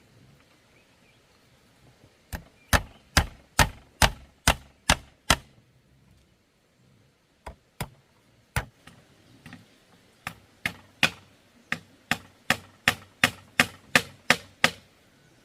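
Repeated sharp blows of a hand tool on bamboo, about two and a half a second, in two runs with a short break and a few single blows between them.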